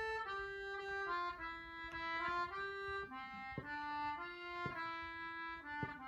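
Instrumental song introduction: a single reedy-sounding melody played note by note, the notes held and stepping mostly downward in pitch, with a few faint clicks between them.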